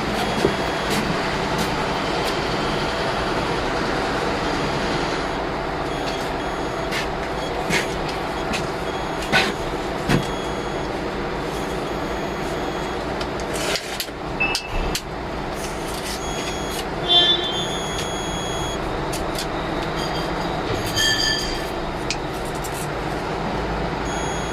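Steady mechanical background noise, like an engine or machine running, with scattered knocks and a few brief high metallic clinks of parts being handled.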